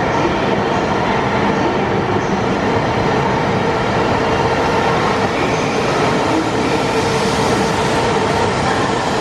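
JR East E5 series Shinkansen cars running past through an underground station, a loud, steady rush of wheels and air with a faint steady hum under it.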